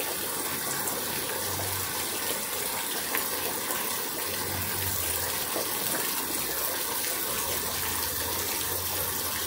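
Heavy rain pouring down steadily on trees and garden plants, an even hiss of falling water.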